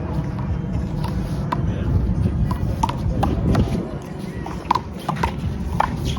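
Sharp smacks of a rubber handball being struck by hand and hitting the wall and court during a rally, about seven at irregular spacing, over a steady low rumble.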